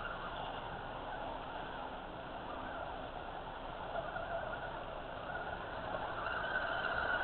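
Electric motor and gear whine of a 1/10-scale RC rock crawler truck driving slowly over rocks. The pitch and level waver with the throttle and get louder near the end.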